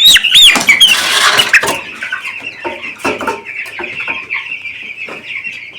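A brooder full of two-week-old chicks peeping in chorus, with a few loud, sharp peeps in the first second. A brief rustle comes about a second in, with scattered small clicks and scuffs through the rest.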